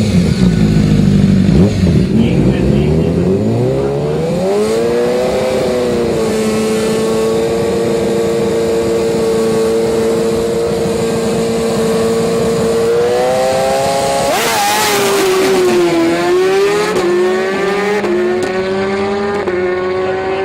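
BMW S1000RR inline-four sport bike engine at the drag strip. It is held at a steady high rev for several seconds, then launches about fourteen seconds in with a burst of noise and a dip in pitch. It then pulls up through the gears in quick rising steps.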